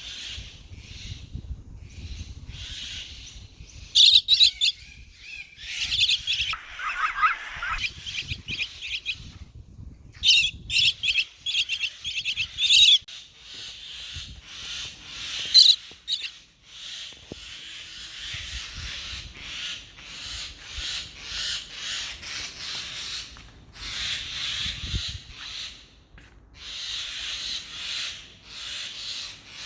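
Baby bird chirping in many short, high peeps, with the loudest bursts about four seconds in, around ten to thirteen seconds and near sixteen seconds. A faint low rustle of handling runs beneath the calls.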